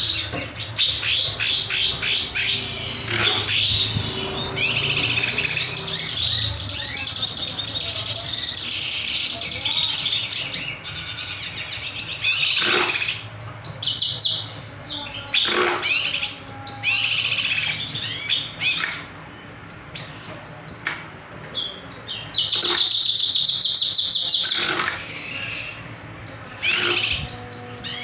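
Kinoy bird singing vigorously and without pause: rapid runs of sharp, rattling notes ('nembak') mixed with harsh scratchy phrases ('beset tajam'), with a long buzzy trill about three-quarters of the way through.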